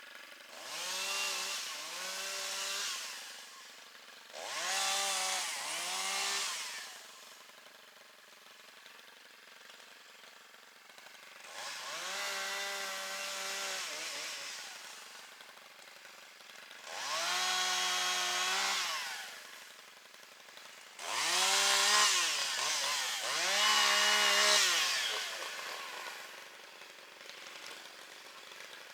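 Two-stroke chainsaw revving up to full throttle in about eight short bursts, some in quick pairs, each held a second or three, then dropping back between cuts while cutting wood.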